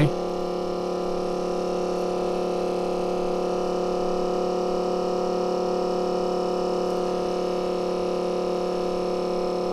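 Steady electrical hum made of several steady tones, unchanging throughout, from the running screen-repair equipment.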